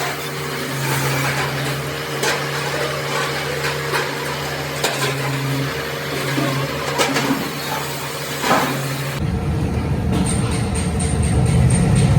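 Workshop machinery running with a steady low hum, broken by a few sharp metal knocks; about nine seconds in, a louder low rumbling machine noise takes over.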